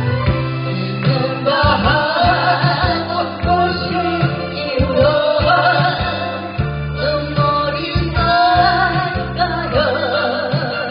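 Korean trot song sung live over an instrumental accompaniment, the vocal line holding long, wavering notes with vibrato above a steady bass.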